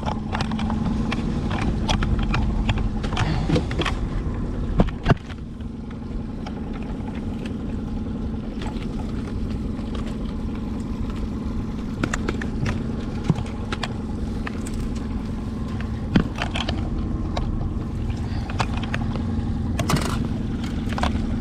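Boat motor running steadily at trolling speed, with scattered knocks and clatter about the boat, the clearest about five, sixteen and twenty seconds in.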